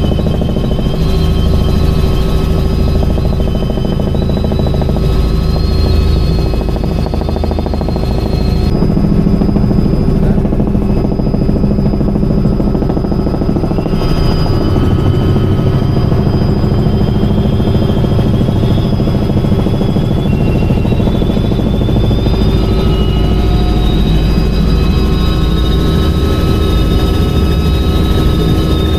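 Helicopter turbine engine and rotor running steadily in flight, heard from inside the cabin: a loud continuous drone with several steady high whine tones over it.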